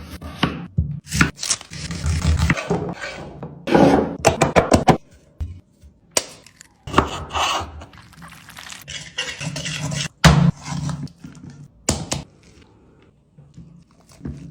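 Kitchen work on chicken: irregular thuds and knocks with scraping between them.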